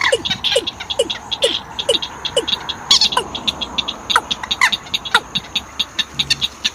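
Birds calling in a busy chorus: short downward-sliding calls repeated two or three times a second, with higher falling calls and sharp clicking notes mixed in.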